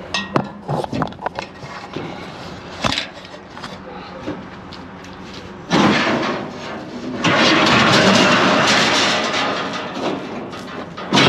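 Scrap metal knocking and clanking, then a long loud scrape of metal being dragged, ending in a sharp bang: a metal handrail being worked loose and pulled out.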